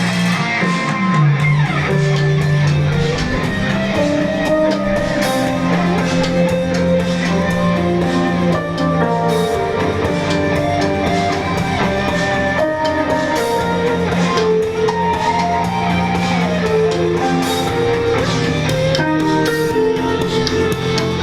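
Rock music with electric guitar and drums playing steadily.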